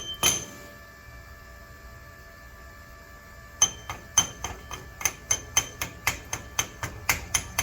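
Chipping hammer striking a stick weld to knock off the thick flux slag, in sharp metallic taps about three a second. The tapping stops about half a second in, the struck steel rings faintly for about three seconds, then the tapping resumes.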